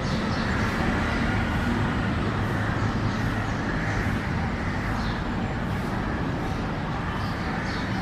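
A few short, faint bird calls over a steady, louder hum of road traffic.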